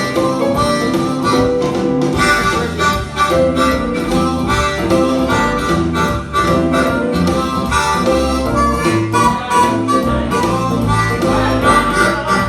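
Blues music led by a harmonica, with a steady beat.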